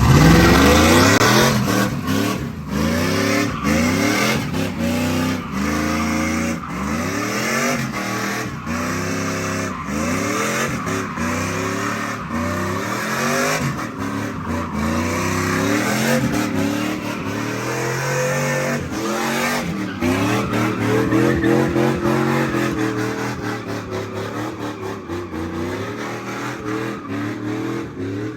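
Car engine revving hard, its pitch climbing and dropping over and over about every second or two, with tires squealing throughout, as when a car is spun in donuts.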